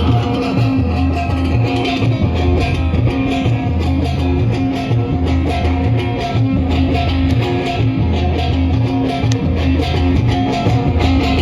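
Live band playing an instrumental passage: electric guitar over bass notes and a steady beat.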